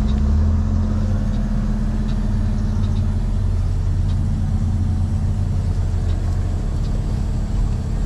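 Semi truck's diesel engine running steadily, with a deeper low hum that eases off about two-thirds of the way through.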